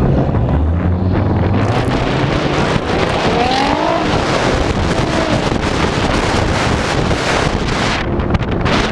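Sports car engines running in a moving convoy, heard from a camera on the outside of a car with wind buffeting the microphone. An engine revs up briefly about three seconds in.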